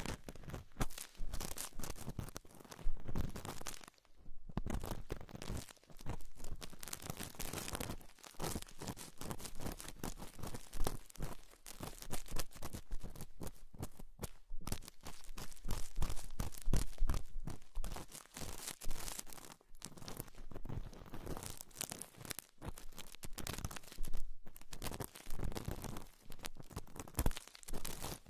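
Close-miked ASMR trigger sounds: dense, continuous crackling and crinkling, like crinkly material being handled and scratched, with a couple of brief pauses.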